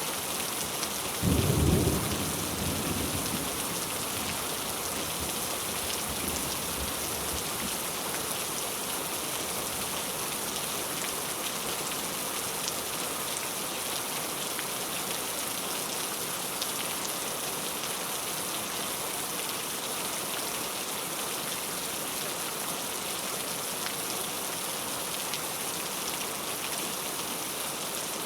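Heavy rain falling steadily with an even hiss, and a low roll of thunder about a second in that fades away over the next few seconds.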